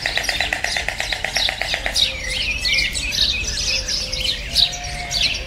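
Birds chirping, many short quick calls overlapping. For the first two seconds a fast, evenly pulsing trill runs underneath, then stops.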